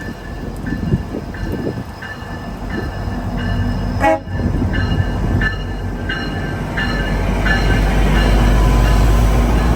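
A GO Transit passenger train's bell ringing steadily, about two strokes a second, as the train pulls into the station. The train's low rumble grows louder near the end, and there is one brief sharp crack about four seconds in.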